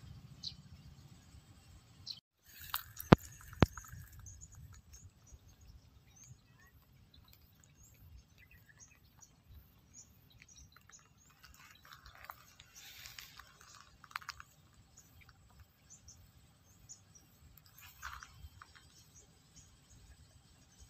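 Faint scattered bird chirps over low background noise. About three seconds in come two sharp clicks half a second apart, the loudest sounds.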